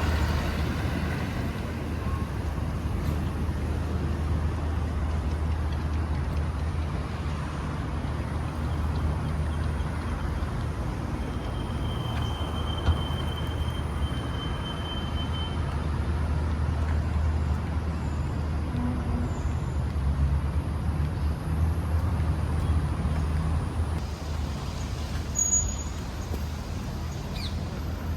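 Steady low rumble of distant road traffic, with a faint thin high tone drifting over it for a few seconds midway.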